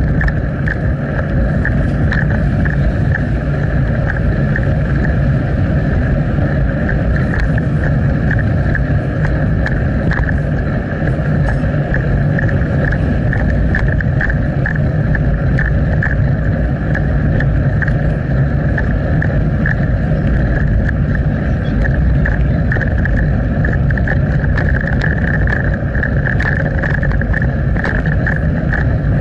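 Steady wind and rolling noise of a bicycle in motion, heard through an action camera's microphone: a constant low rumble with a hiss over it and small scattered clicks.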